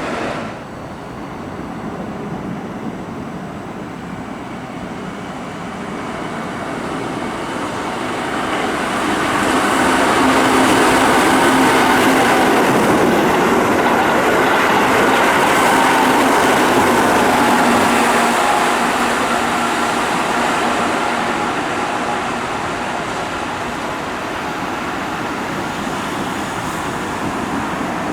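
Keihan 6000 series electric train passing at speed: its running noise builds over several seconds, is loudest for about eight seconds in the middle with a steady hum, then slowly fades.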